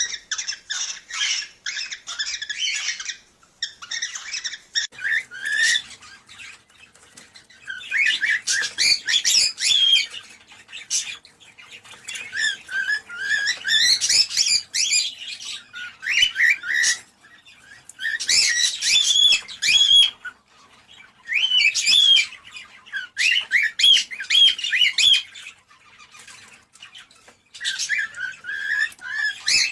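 Cockatiels singing and chattering, played as a sound to stimulate breeding. The chirping, warbling phrases last about two to three seconds each, with short pauses between them.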